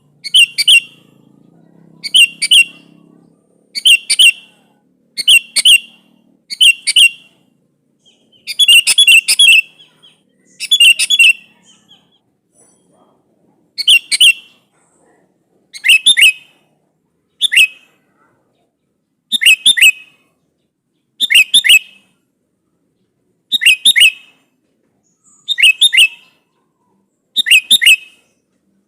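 Sooty-headed bulbul (kutilang) giving short, loud call phrases over and over, about one every one and a half to two seconds. It is a lively bird calling to a rival.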